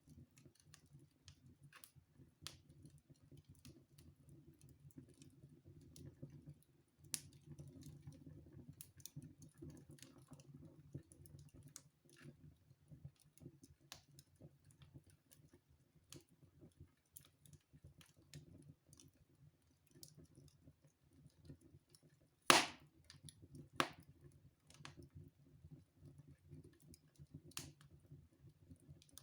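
Fire burning in a fireplace, crackling with scattered small snaps over a low steady rumble. About two-thirds through comes one loud sharp pop, and a second, smaller pop follows just over a second later.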